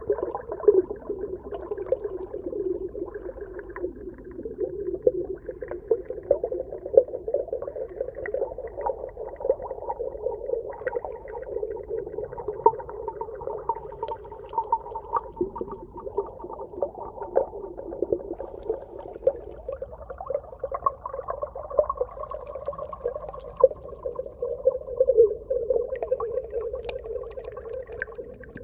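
Underwater ambience: a steady, muffled mid-pitched wash of sound peppered with many short sharp clicks and pops throughout.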